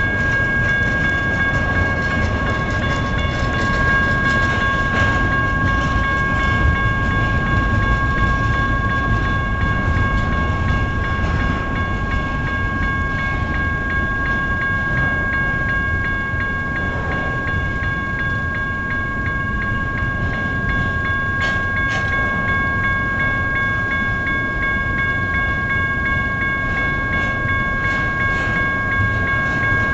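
Double-stack intermodal freight train rolling steadily past, its wheels rumbling and clacking on the rails, while the crossing's General Signals type 1 electronic bell rings continuously over it.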